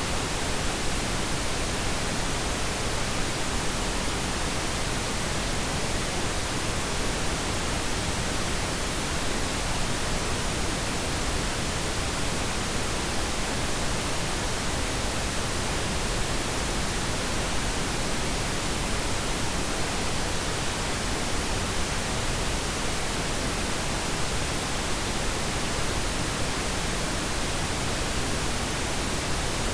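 Steady pink noise: an even, unchanging hiss across the whole range, softer in the highs than white noise.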